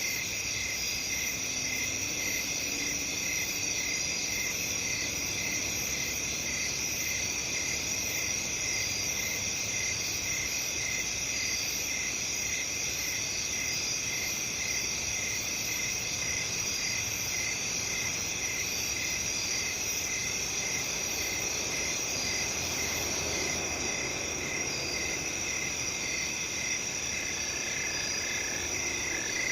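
A chorus of crickets chirping steadily, with several overlapping high, evenly pulsing trills. Another pulsing call joins near the end.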